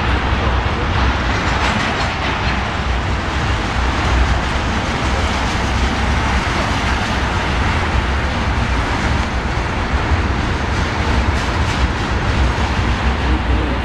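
Ethanol tank cars of a long freight train rolling past, a steady rumble with wheels clicking on the rails.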